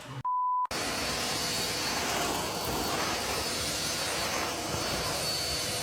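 A short electronic beep, then a steady, even hissing rush that runs without a break for about five seconds.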